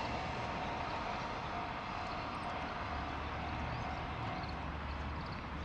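Container freight train wagons rolling away along the track, a low rumble slowly fading as the end of the train moves off. A faint steady tone carries on beneath it and stops about four and a half seconds in.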